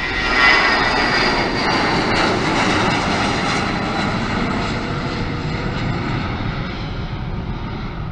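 An airliner passing close by, loudest about half a second in and then slowly fading, its engine noise carrying a high whine that dies away over the first few seconds.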